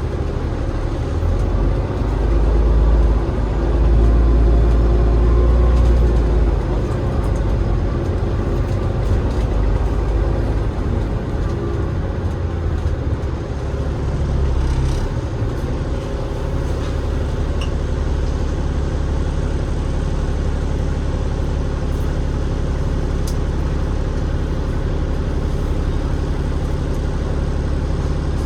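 Cummins ISL8.9 straight-six diesel engine of a double-decker bus running, heard from on board as a steady low drone that swells for a few seconds about three seconds in, then holds even.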